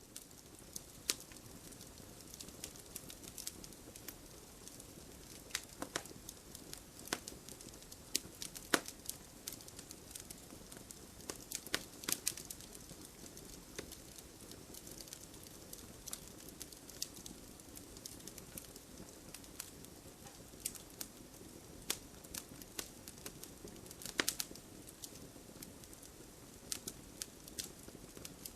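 Wood fire in a fireplace burning steadily, with irregular sharp crackles and pops over a low hiss of flames.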